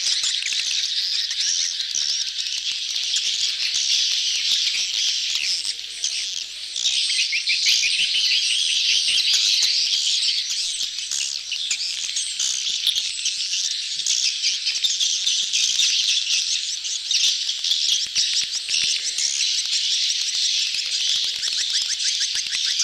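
A dense crowd of swiftlets twittering nonstop, many rapid high chirps overlapping: the courtship chatter of a colony used as a swiftlet lure call. There is a short lull about six seconds in.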